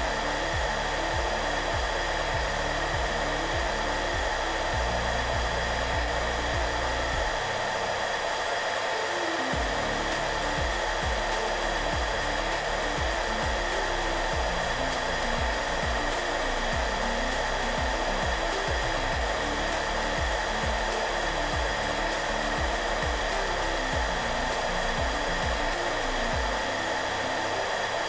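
Hair dryer running steadily, a constant blowing whir, with soft background music of slow low notes underneath.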